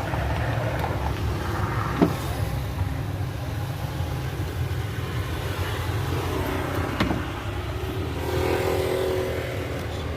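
A motor running with a steady low rumble, broken by two sharp clicks, one about two seconds in and one about seven seconds in.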